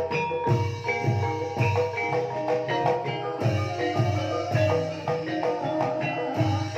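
Banyumasan gamelan ensemble playing an instrumental gending in the ebeg style: interlocking struck metal or bamboo keys carry the melody over regular low drum strokes.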